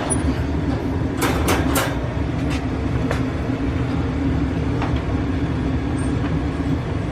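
A steady low mechanical rumble with a constant hum, like a running appliance. About a second in there are three quick sharp clicks, followed by a few fainter clicks.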